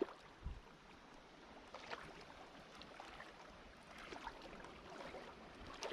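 Faint flowing shallow river water, with a few soft wading steps.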